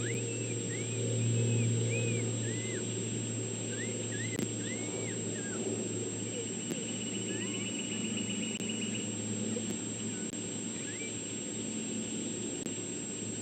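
Runs of short, high, arching animal chirps, a dozen or so in the first half and a few more later, over a steady low hum.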